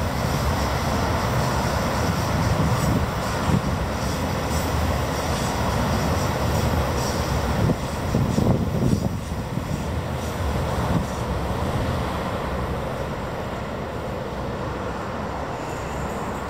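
A passing passenger train's wheels rumble steadily on the rails, with a repeated clack over the rail joints. The sound is loudest in the first half and fades slowly after about twelve seconds.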